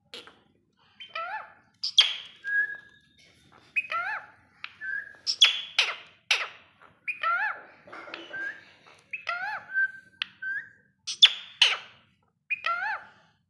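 Pet parrot chirping and squawking in a string of short calls, with rising whistled notes and a few sharp squawks, one or two calls a second.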